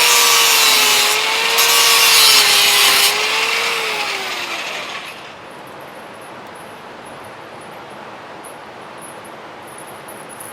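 Handheld power tool cutting with a harsh hiss over a wavering motor whine, then released about four and a half seconds in and spinning down. Only a quiet steady background is left after that.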